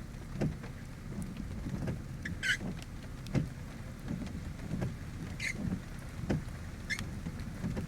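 Outdoor ambience: a steady low rumble on the microphone with irregular low thumps, and a few short high chirps about two and a half, five and a half and seven seconds in.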